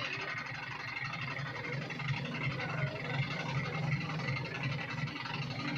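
A farm machine's diesel engine running steadily at a low idle.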